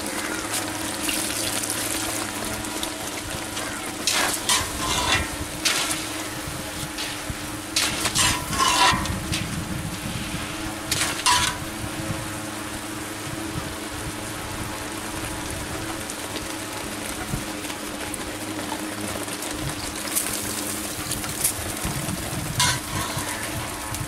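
Boondi cooking in a metal kadai with a steady sizzle. A perforated metal ladle scrapes and clinks against the pan in several short bursts, a few seconds in, around the middle, and again near the end.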